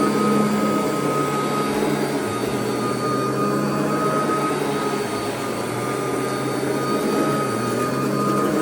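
Royal vacuum cleaner running over carpet: a steady motor hum with a constant high whine and airflow rush. The motor's pitch sags briefly a few times as it works.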